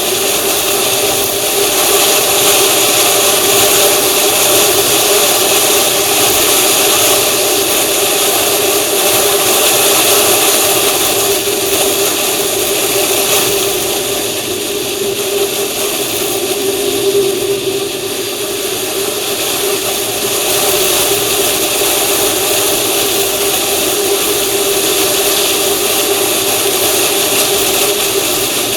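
Vehicle engine running steadily on the move, with a constant hum and a continuous hiss over it.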